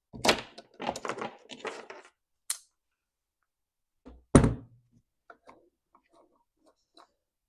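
Chainsaw parts being handled on a workbench as the clutch cover, bar and chain come off: about two seconds of clattering and rattling, a sharp click, then one heavy thunk about four seconds in as a part is set down, followed by a few light clicks.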